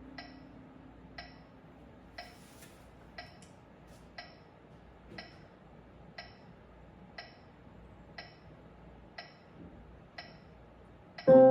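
Metronome ticking steadily about once a second, between piano passages; a last piano note dies away near the start.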